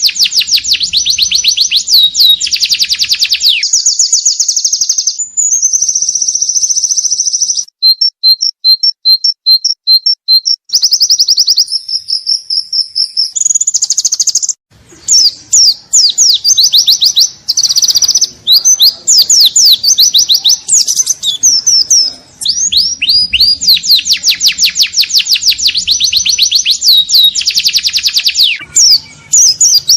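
Pleci (white-eye) singing a loud, unbroken ngalas song: long fast runs of high, sharp chirping notes, the song filled with isian, calls of other birds mimicked and woven in. About eight seconds in the notes turn slower and evenly spaced for a few seconds, and there is a brief break about halfway through.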